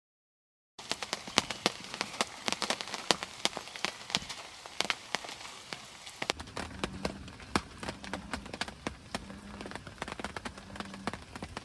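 Rain falling, with many sharp separate drops striking close by. From about six seconds in, frogs croak with a low call repeated four times.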